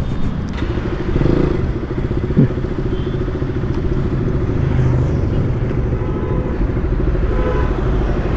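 KTM Duke motorcycle engine idling steadily, with one short thump about two and a half seconds in.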